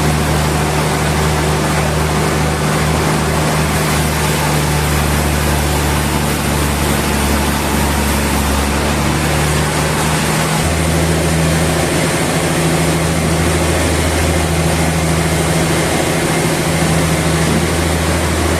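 Sawmill machinery running steadily with a loud, low hum, its tone shifting slightly about ten seconds in.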